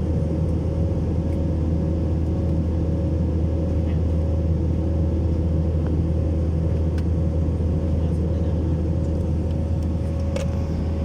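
Steady low mechanical drone with a constant hum, unchanging in level throughout, with a few faint ticks over it.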